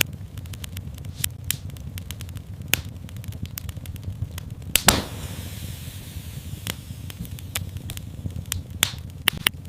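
Wood fire crackling in a fireplace: a steady low rumble of flames under frequent sharp pops. One louder pop comes about five seconds in, followed by a brief hiss.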